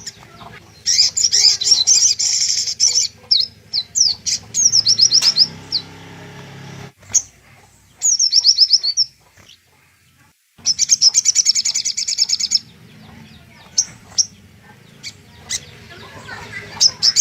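Little spiderhunter (sogok ontong) calling: rapid, high, buzzy trills in bursts of about two seconds, with quick sharp chirps between them.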